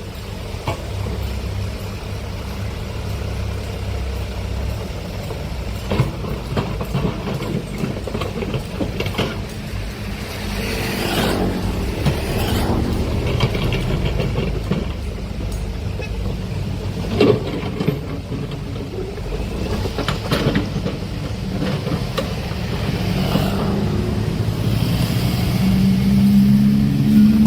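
Heavy excavator's diesel engine running under load, with sharp metallic clanks and squeals of the steel bucket and tracks. The engine note grows louder near the end.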